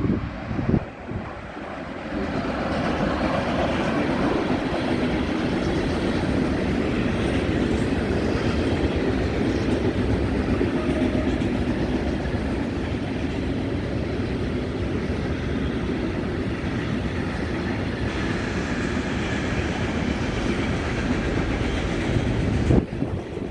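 A train running past on the tracks: a steady rumble with clatter from the wheels over the rail joints, lasting about twenty seconds before it cuts off abruptly near the end.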